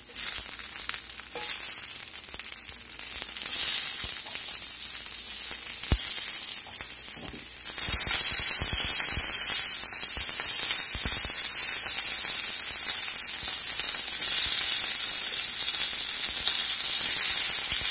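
Whole head-on shrimp sizzling in hot olive oil in a skillet as they are laid in one after another, with a few light taps as they go in. The sizzle builds as the pan fills, jumps louder about eight seconds in, then holds steady.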